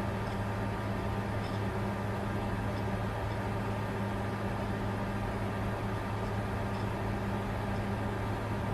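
Bitcoin mining computer running, its cooling fans giving a steady rushing whir over a constant low hum.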